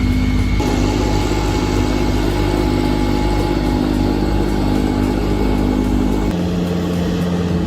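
Engine of snow-clearing machinery running steadily under load. Its note changes abruptly about half a second in and again near the end.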